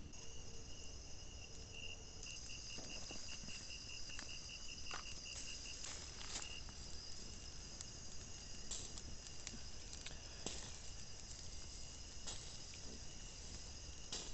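Insects trilling steadily, high-pitched, with one chirping in a fast run of about five pulses a second for the first few seconds. Scattered light clicks and taps through the sound.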